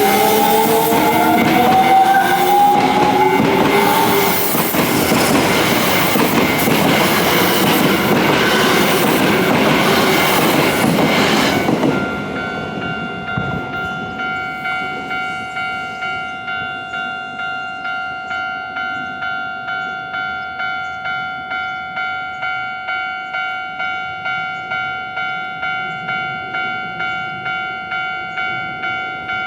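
Electric train passing a level crossing, loud with wheel and running noise and a rising motor whine in the first few seconds; the train noise cuts off suddenly about twelve seconds in. A Japanese level-crossing warning bell keeps ringing, a steady repeated ding just under two strikes a second.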